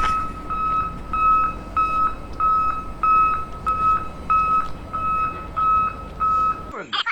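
Electronic reversing beeper sounding a steady series of short, identical high beeps, about one every 0.6 seconds, about a dozen in all. It stops near the end.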